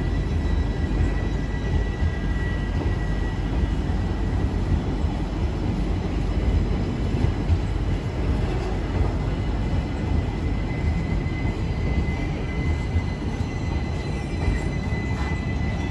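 Indian Railways express coaches rolling past along the platform as the train departs: a steady rumble of wheels on rails, with a thin steady high-pitched tone above it.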